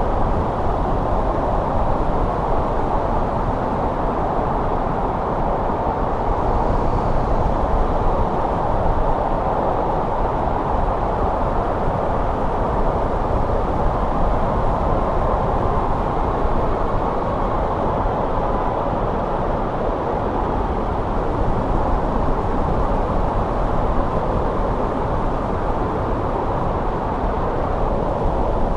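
Snowstorm wind blowing steadily: an even, low noise with no distinct gusts.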